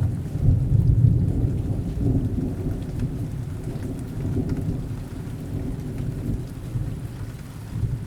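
Steady rain with a low rolling rumble of thunder, loudest about a second in and slowly fading.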